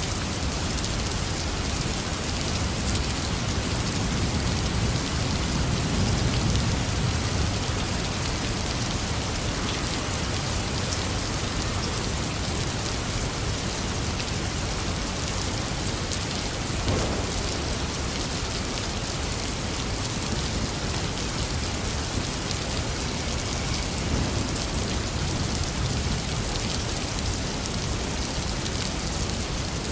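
Heavy rain falling steadily, with a low thunder rumble swelling about five seconds in.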